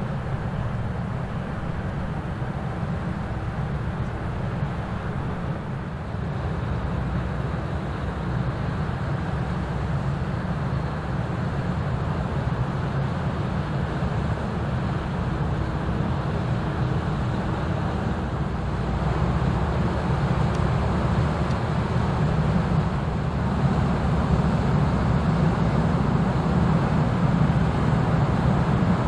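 Diesel engine of a passing Rhine inland ship running steadily, a low drone that slowly grows louder as the vessel approaches.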